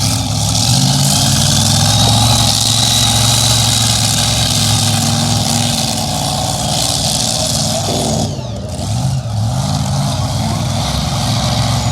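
Engine of a competition pulling truck or tractor running hard at high revs, with a high whine over it. About eight seconds in it eases briefly and its pitch dips and climbs again.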